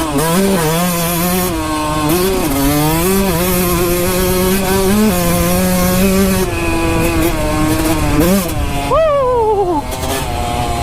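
Kawasaki KX 125 two-stroke single-cylinder dirt bike engine running at fairly steady revs, its pitch shifting a little with the throttle. A short blip comes a little past 8 seconds in, then a sharp rev up and back down about 9 seconds in.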